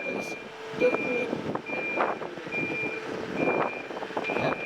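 Reversing alarm on road works plant beeping steadily: a single high tone repeating about once a second, six beeps in all. Underneath it are irregular knocks and machinery clatter from the repair work.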